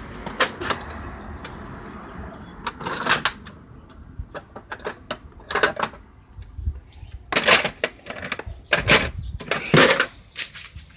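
Scattered clicks, clacks and short scrapes of a hand tool and plastic dash trim being handled, in uneven clusters about every second or two.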